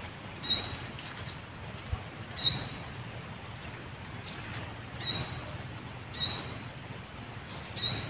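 Small bird giving short, sharp, high chirps that each rise quickly and then hold, about five loud ones at uneven intervals with fainter notes in between.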